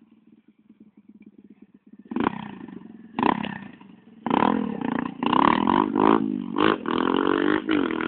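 110cc pit bike's four-stroke single engine, faint at first, then loud from about two seconds in as the bike comes close. The rider blips the throttle repeatedly, so the revs rise and fall with several brief drops.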